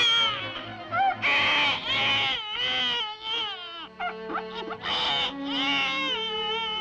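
A cartoon baby crying in a string of short wails that rise and fall, over orchestral cartoon music.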